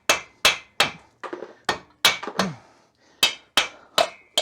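Hammer blows on the seized cylinder head of an air-cooled VW Beetle engine, struck to break the head free where it is stuck to the cylinders. About a dozen sharp strikes land in quick runs of roughly three a second, each with a brief metallic ring, with a short pause midway.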